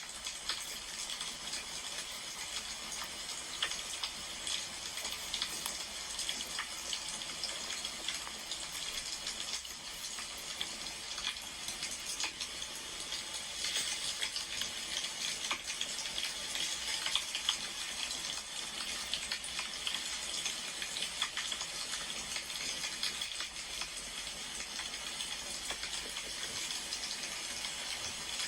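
Wood fire crackling: a steady hiss scattered with many small pops and crackles.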